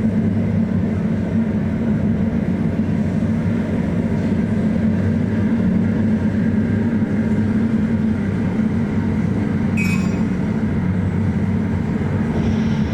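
Steady low drone of a ship's engines and machinery aboard a ferry, a constant hum with no change in pace. A brief sharp tick or beep sounds about ten seconds in.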